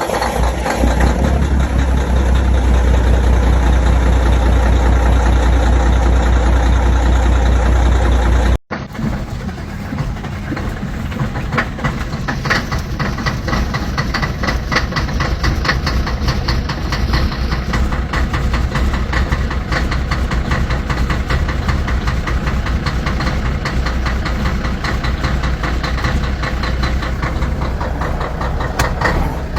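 Diesel truck engines running cold. For the first eight seconds or so one engine gives a deep, loud rumble. It cuts off suddenly, and then another diesel idles with a fast, steady clatter.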